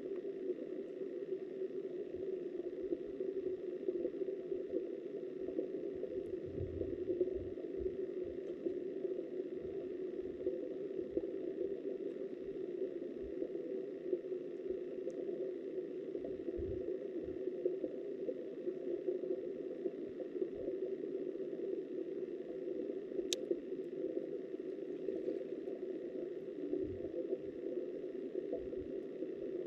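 Muffled rush of river water heard underwater through a submerged camera: a steady, low-pitched noise with scattered low bumps and one sharp click about two-thirds of the way through.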